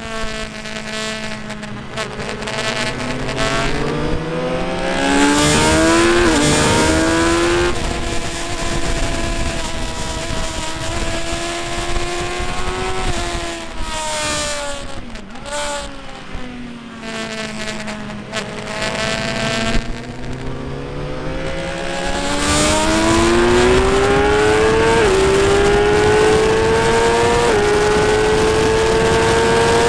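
Motorcycle engine at racing speed, rising in pitch through the gears with a short drop at each upshift. About halfway through the pitch falls away as the bike slows, then it climbs through the gears again, over a steady rush of wind.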